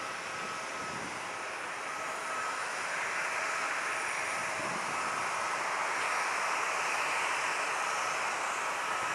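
Airbus A320 jet engines running, a steady rushing noise with a thin high whine, growing a little louder about three seconds in.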